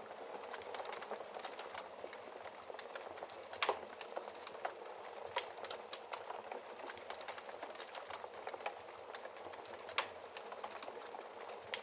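Wood fire burning in a fireplace: a steady low hiss of flames with irregular crackles and snaps, the sharpest pops about four seconds in and again near the end.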